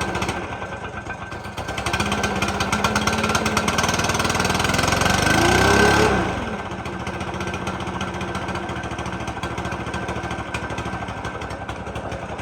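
Stihl BR600 backpack blower's 4-MIX engine running just after being started on half choke. About two seconds in it revs up and climbs for several seconds, then drops back to a steady, lower idle about six seconds in.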